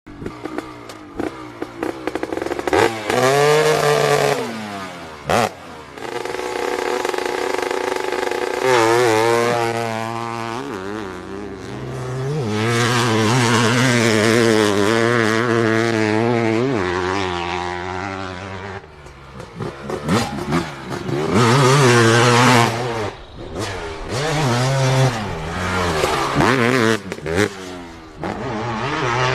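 Motocross motorcycle engines revving hard, the pitch climbing and dropping again and again as the throttle opens and closes, with a few abrupt breaks.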